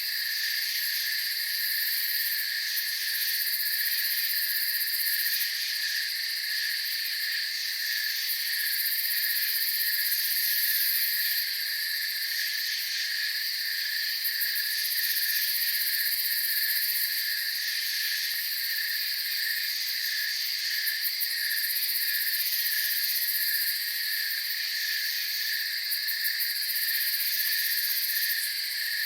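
Night chorus of crickets and other insects trilling steadily, with a layer of regular pulsing chirps and higher trills that fade in and out every few seconds.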